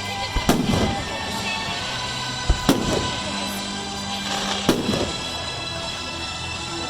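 Fireworks bursting overhead: three sharp bangs about two seconds apart, with music playing throughout.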